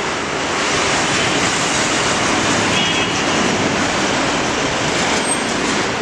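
Steady roadside traffic noise, with a brief faint high tone about halfway through.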